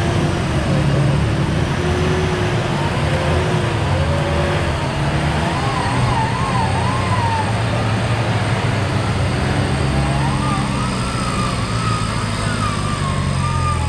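Off-road 4x4 vehicle engine running steadily and loud, heavily worked. A wavering high-pitched tone rises and falls over it about six seconds in and again from about ten seconds on.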